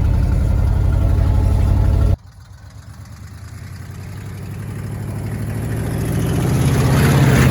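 Old Ford F-250 highboy truck engine running steadily. About two seconds in the sound cuts off suddenly to a quieter engine sound that grows steadily louder.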